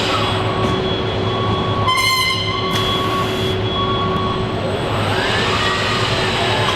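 Assembly-line machinery running with a steady hum, broken by repeated electronic warning beeps and a short horn-like buzzer blast about two seconds in: the warning signals of an automated guided vehicle or robot moving through the station.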